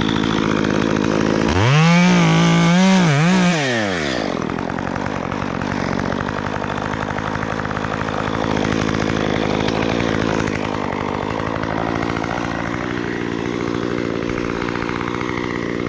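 Stihl MS 194T top-handle two-stroke chainsaw running: it revs up about a second and a half in, dips once, and drops back around four seconds, then runs on steadily.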